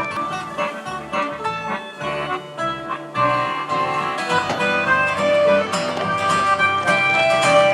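Live acoustic country band playing the instrumental intro of a song, with plucked acoustic guitar and fiddle.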